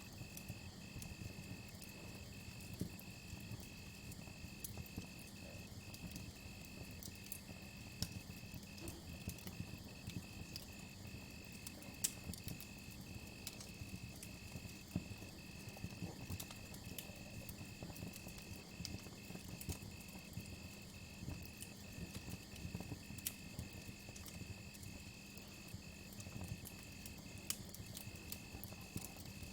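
Campfire crackling with scattered sharp pops over a low steady rumble of burning wood, and crickets chirping in a steady, even pulse a couple of times a second.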